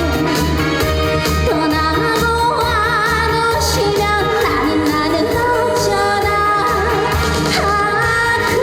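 Trot song performed live: a woman singing with vibrato over a backing track with a steady bass beat.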